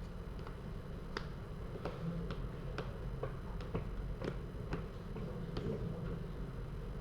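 Trading cards being handled on a table: about a dozen light, sharp clicks at an irregular pace, roughly two a second, over a steady low room hum.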